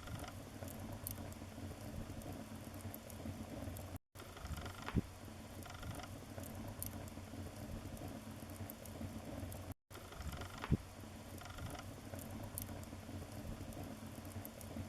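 Wood fire crackling steadily in a fireplace, with two sharp pops about six seconds apart. The sound is a short loop that cuts out for a moment twice.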